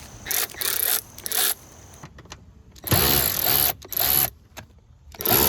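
Cordless power driver spinning out the T50 Torx bolts that hold a BMW E39 front seat. It runs in several short bursts, the motor whine rising and falling in pitch with each run.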